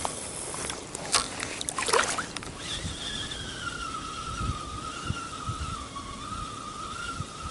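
A few sharp knocks in the first two seconds, then a distant boat's outboard motor whining steadily, its pitch wavering slightly.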